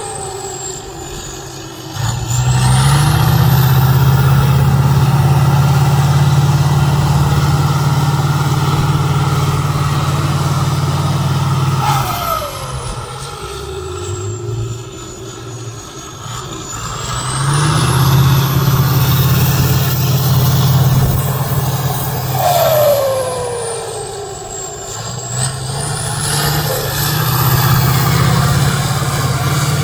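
Competition trial truck's engine working hard in three long pushes, easing off in between, with a falling whine each time it drops back.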